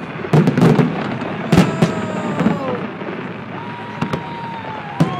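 Fireworks going off: a rapid scatter of sharp bangs and crackling pops, with several whistles that fall in pitch as they fade.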